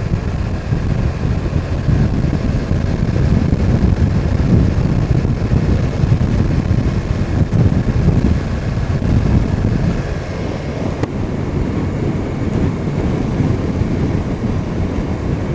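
Wind rushing over a helmet-mounted microphone on a moving BMW R1200 motorcycle, with the bike's boxer-twin engine running under the wind noise.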